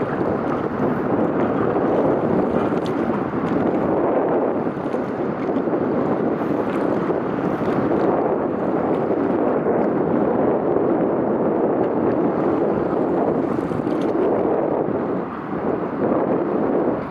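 Steady rushing wind noise on the microphone, rising and falling slightly, with a short dip near the end.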